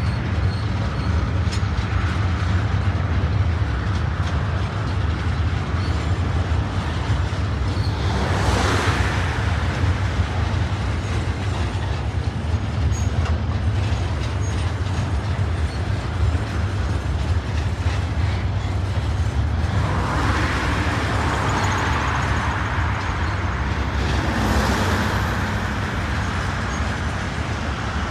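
TasRail freight wagons, loaded log wagons and container flats, rolling across a rail overbridge in a steady low rumble. Road traffic passes underneath, adding a hissing swell about 8 seconds in and a longer one from about 20 seconds.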